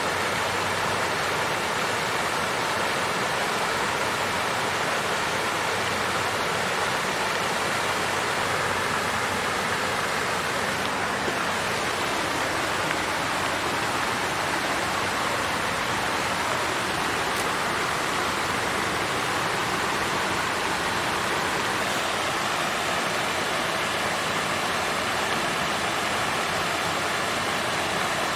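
Water fountain running: a steady splashing rush of flowing water with no change.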